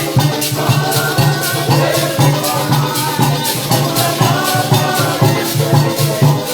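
Parang band playing: maracas shaking in a steady rhythm over pitched instruments and a pulsing bass line.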